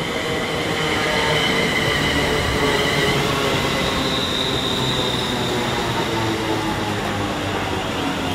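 Electric commuter train pulling in along the platform and slowing, with its running noise carrying several high squealing and whining tones that slide slowly down in pitch as it brakes.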